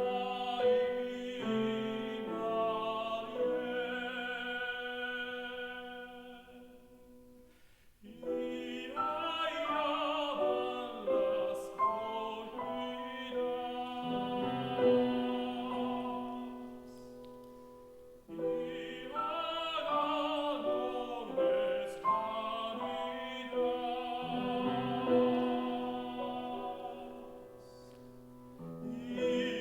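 Tenor singing a Spanish song in operatic style with piano accompaniment. The phrases fade to short breaks about seven seconds in and again near eighteen seconds, then begin again.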